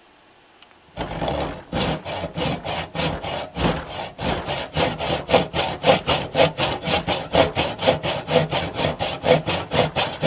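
Hand saw cutting through a PVC plastic piece in quick, even back-and-forth strokes, about four a second, starting about a second in.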